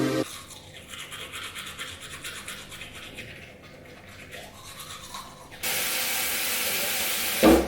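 Teeth being brushed: quiet, fast scrubbing strokes. About six seconds in, a louder steady rush like running water lasts about two seconds and ends with a knock.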